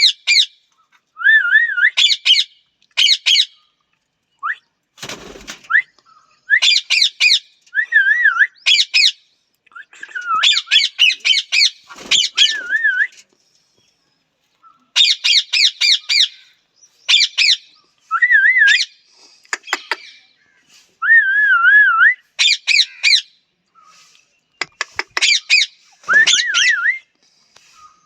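Parrot calling: about a dozen short bouts of harsh squawks mixed with wavering, warbling whistles, each about a second long with brief pauses between.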